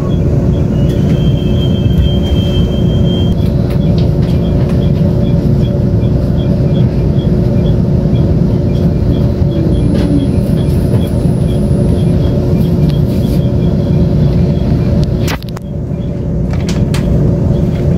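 Interior running noise of a Taiwan Railways Tze-Chiang express train at speed: a steady low rumble with a constant hum and faint regular ticking. The rumble drops away briefly about fifteen seconds in, then returns.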